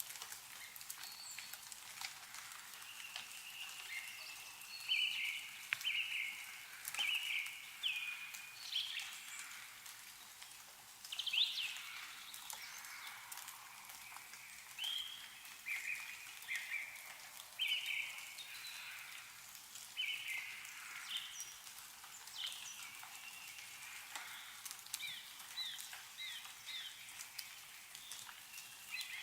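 Meltwater dripping and pattering from snow-laden trees as scattered ticks over a soft hiss, with birds calling throughout in short repeated chirps.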